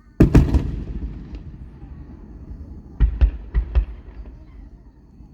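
Fireworks bursting. A loud double bang comes just after the start, its rumble dying away over about a second. About three seconds in, four sharp bangs follow in quick succession.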